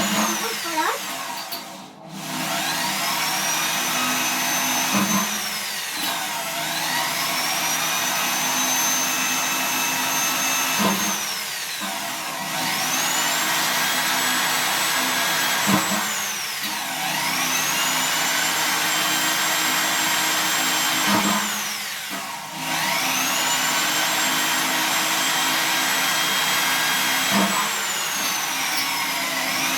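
Electric drill drilling holes through the thin steel of a 44-gallon drum. The motor whine spins up, holds steady for several seconds, then winds down as the trigger is released, about five times over.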